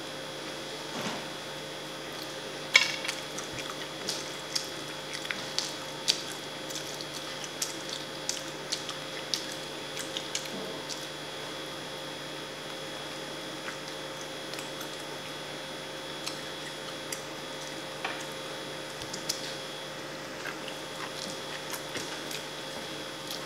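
Close-miked eating: chewing with wet mouth clicks and smacks, thickest in the first ten seconds and one sharper smack about three seconds in, then sparser. A steady hum runs underneath.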